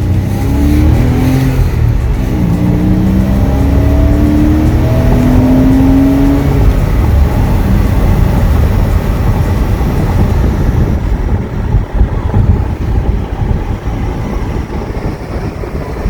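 Porsche 986 Boxster's flat-six engine accelerating, its pitch climbing in several rising sweeps through the gears over the first seven seconds, then settling into steady cruising with low road and tyre rumble.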